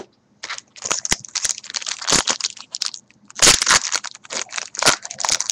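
Trading-card pack foil wrapper being handled in the hands, crinkling and crackling irregularly, with a short lull about three seconds in. A single sharp click comes right at the start.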